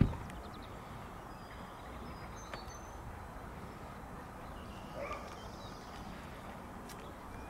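Steady outdoor background noise, with a sudden thump right at the start and a few faint, short high chirps in the first few seconds.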